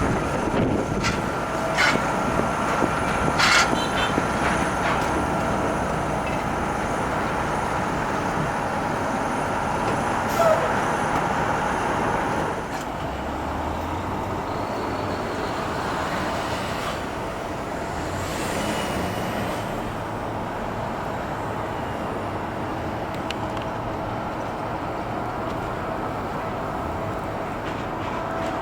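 Jet airliner engines running, a steady noise with a held whine through it. There are a few sharp clicks in the first few seconds, and the sound drops a little quieter about 13 seconds in.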